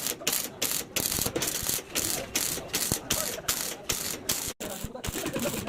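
Rapid rasping or ratcheting strokes of a hand tool on car body work, repeated evenly at about three a second, briefly cut off about four and a half seconds in.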